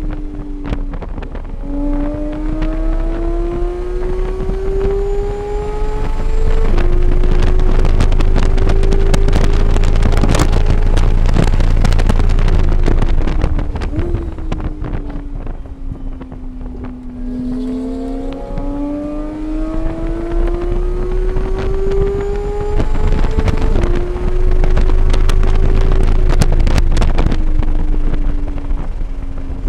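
Race-prepared car engine at full throttle, climbing through the gears with quick upshifts and then dropping away under braking with a downshift blip, twice over. Heavy wind buffeting on the microphone rises with speed.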